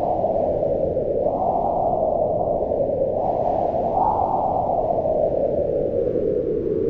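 Strong mountain wind howling in a blizzard: a steady rush that swells and rises in pitch around one second and again about four seconds in, then eases.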